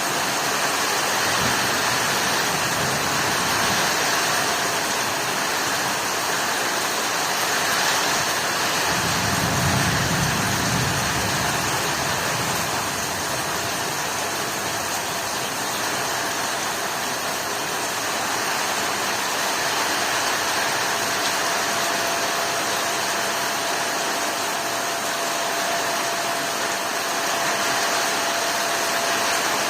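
Heavy rain falling steadily, an even hiss, with a low rumble that swells about nine seconds in and fades a few seconds later.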